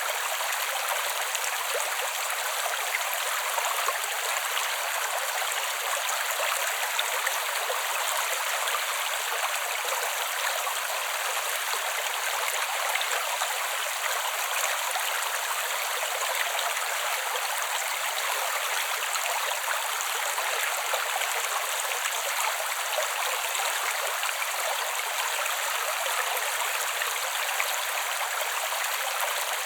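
A creek flowing steadily: an even, unbroken rush of water, all hiss and splash with no low rumble.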